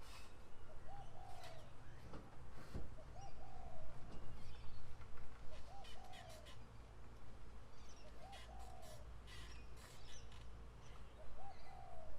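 A bird calling outdoors, a short note followed by a longer falling note, repeated five times at even intervals about two and a half seconds apart, over scattered clicks and rustles.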